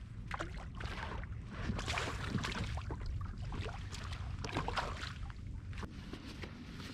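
Water sloshing and slapping against an inflatable boat, many short irregular splashes over a steady low rumble.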